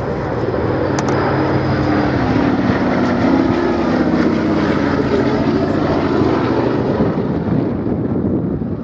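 B-17 Flying Fortress's four radial piston engines droning in a flypast. The sound grows louder over the first few seconds and eases off near the end.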